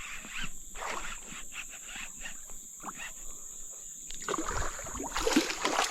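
A steady high insect drone with scattered light ticks and rustles. Near the end it gives way to louder splashing and handling noise as a largemouth bass is brought in from the creek.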